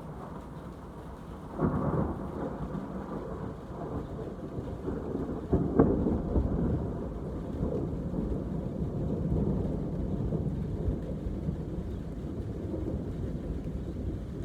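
Thunder during a rainstorm: a sudden clap about a second and a half in, a sharper crack near the middle, then a long rolling rumble over steady rain.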